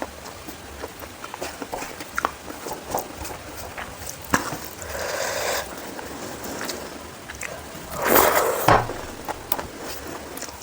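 Eating by hand at close range: small wet clicks and smacks of fingers working rice and of the mouth chewing, with a softer rush about five seconds in and a louder noisy rush about eight seconds in.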